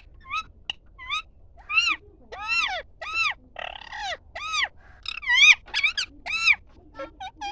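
A bird calling over and over, short arching calls that rise and fall in pitch, about two a second.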